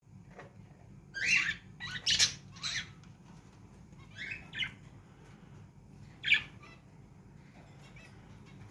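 Pet parrots giving short, harsh squawking calls: a cluster of four or five in the first three seconds, two more around four seconds in, and a loud one near the middle, over a faint steady low hum.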